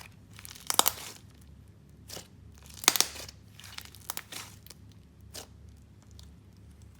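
Slime being squeezed and pressed by hand, giving a series of short crunching, crackling bursts with pauses between them.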